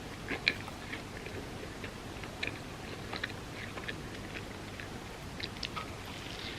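A person chewing and eating, with many small sharp mouth clicks scattered throughout; the sharpest comes about half a second in.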